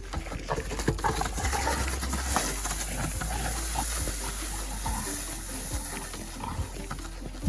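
An animal's short calls, several times over a few seconds.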